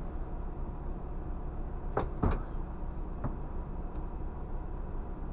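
Scania bus diesel engine running with a steady low hum, heard from the cab. Two sharp knocks about two seconds in, close together, and a lighter one about a second later, like rattles or knocks in the bus body.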